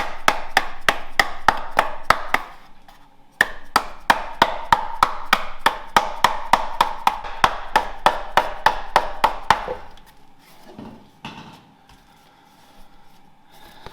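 Rapid, even hammer taps, about five a second, in two runs with a short pause about two and a half seconds in: tapping cardboard against an engine mount to mark its bolt holes for a template. It goes quieter and scattered about ten seconds in.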